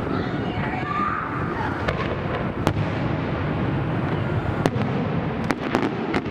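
Aerial fireworks display going off: a continuous rumble of booms with sharp cracks on top, several in quick succession near the end.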